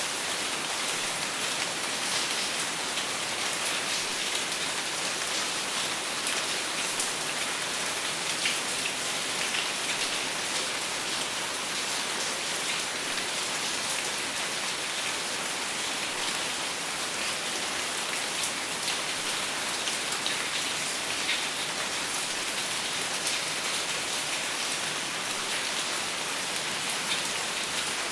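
Steady rain falling on a surface, a dense even hiss with fine drop ticks and no thunder.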